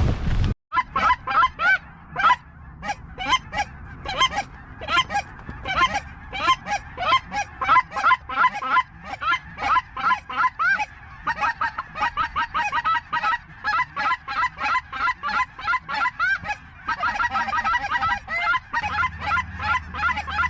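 Goose honking: a dense, continuous run of rapid, overlapping short honks and clucks. A low steady hum joins near the end.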